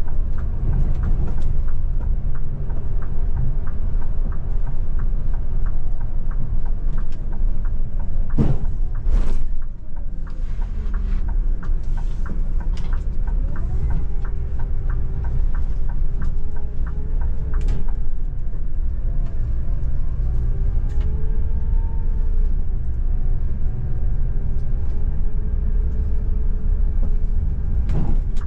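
Scania multi-axle coach on the move: a steady low road-and-engine rumble with a constant light rattle of small clicks, and two sharper knocks about eight and nine seconds in.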